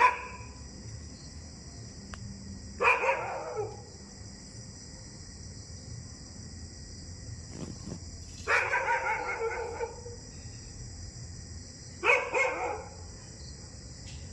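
A dog barking in four bouts: one bark at the start, a short run about three seconds in, a longer string of barks from about eight and a half to ten seconds, and another short run near twelve seconds.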